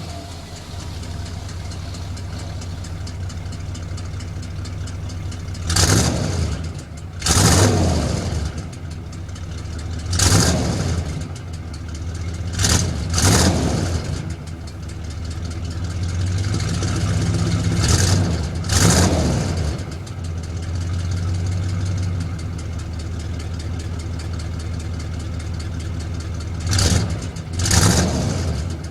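Engine idling through its exhaust system with the throttle blipped nine times, mostly in quick pairs; each rev rises sharply and falls back to a steady idle.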